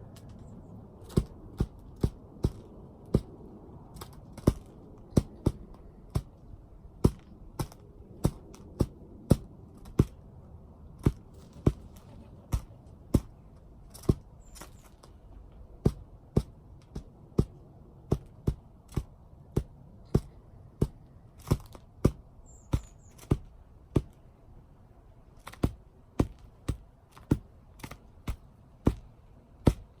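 Juvenile starling pecking at seeds close to the microphone: sharp beak taps, irregular, about one or two a second, with a short high chirp about two-thirds of the way through.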